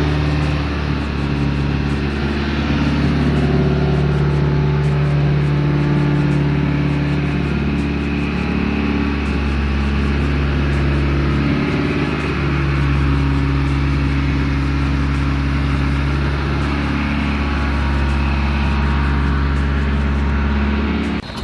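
Mitsubishi 4B12 2.4-litre inline-four petrol engine running steadily on a test stand, at an even speed.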